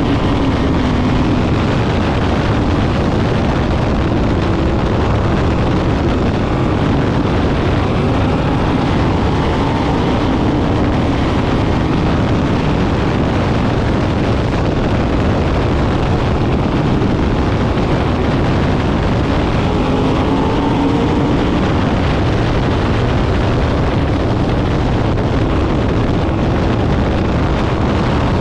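Several sprint car V8 engines running at racing speed, a steady loud din with pitches that rise and fall as cars pass.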